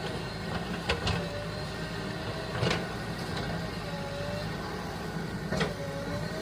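Heavy diesel engine running steadily, with three sharp knocks about a second in, near the middle and near the end.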